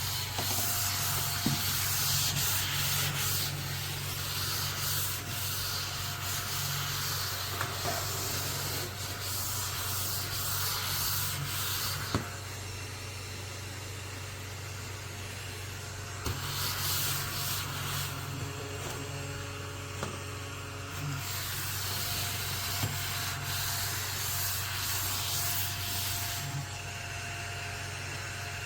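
Cordless mini desktop vacuum running with a steady low hum while its bristles rub and scrub across a hard surface in long scratchy spells, pausing a few times.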